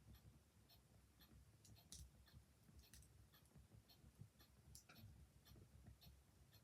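Faint crackling of a wood fire in a small room, with scattered sharp pops over a low steady rumble, and the light ticking of a clock.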